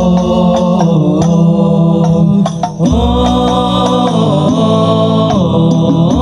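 Sholawat music: voices of a choir sing long held, slowly gliding notes over a steady light percussion beat, with a brief drop-out about two and a half seconds in.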